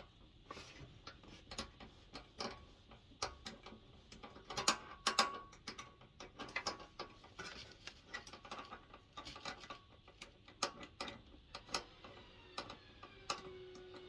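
Irregular small clicks and taps of hand tools and metal parts being handled while a diesel heater is taken apart.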